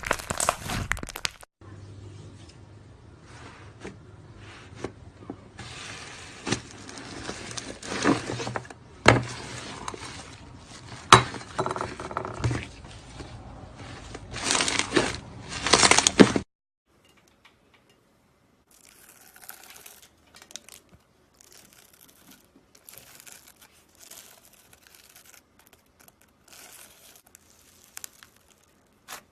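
Slime being squeezed and stretched by hand, making many small sharp clicks in a rustling noise. The sound is louder for the first sixteen seconds or so, then cuts off suddenly, and fainter, sparser clicks follow.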